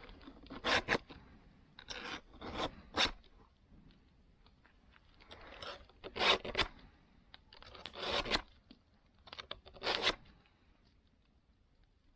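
A file rasping across saw teeth in short strokes, in irregular groups of one to three with pauses between.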